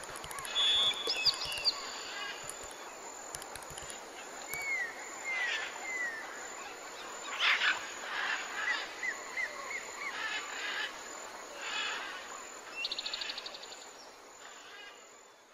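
Birds singing and calling: a run of short, repeated gliding chirps through the middle, and a fast trill near the end.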